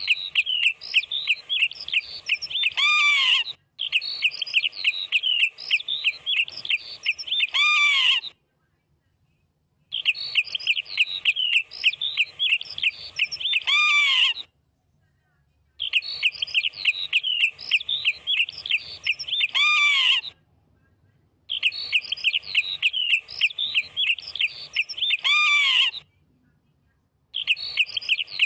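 A bird calling in fast runs of high chirps, each run of about four seconds ending in a few falling, sweeping notes. The same run repeats about five times with silent gaps of a second or so between.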